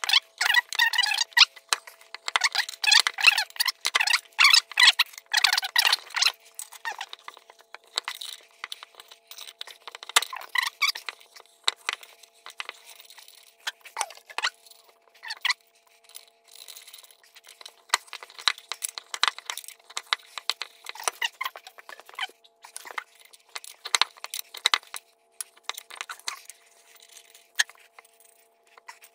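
A 3/8 NPT pipe-thread tap being turned by hand into metal, squeaking and scraping in short irregular strokes as it cuts. The strokes are loudest and most frequent in the first several seconds and come more sparsely later, as the tap gets tough to turn.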